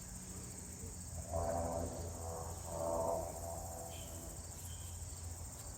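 Steady, high-pitched chorus of crickets in an open field. Twice, about a second and a half in and again around three seconds, a faint murmur like a low voice rises over it.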